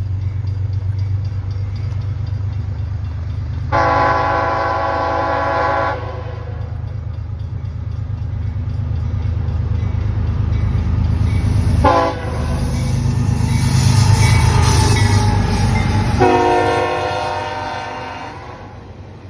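Diesel locomotive leading an autorack freight train, its engine rumble building as it approaches and passes, then fading. Its horn sounds three times: a long blast, a short blast, then another long blast.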